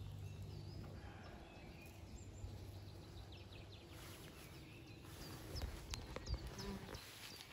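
Small birds chirping faintly over a low steady hum that stops about halfway through, with a few sharp clicks a little before the end.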